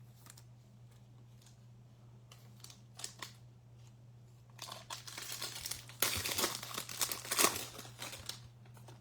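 Plastic-foil trading card pack wrapper crinkling and tearing as it is opened by hand. A few light clicks come first, then crinkling starts about halfway through and is loudest near the end, over a steady low hum.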